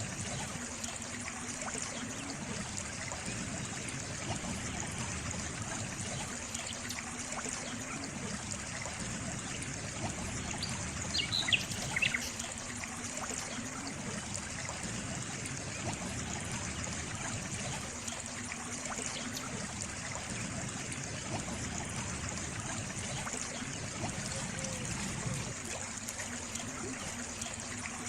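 Small stream trickling and running steadily. About eleven seconds in, a brief high chirp stands out over the water.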